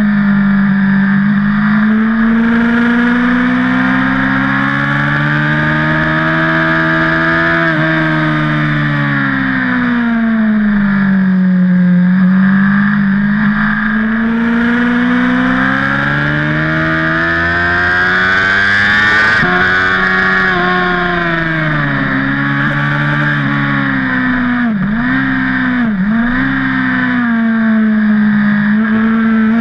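BMW HP4's inline-four engine heard from on board at track speed, its pitch climbing and falling in long sweeps through the gears as the bike accelerates and slows, with two quick dips in pitch near the end.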